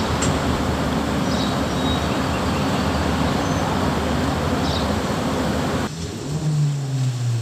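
Steady city street traffic on a wet road: a continuous hiss with a low engine hum, cutting off abruptly about six seconds in.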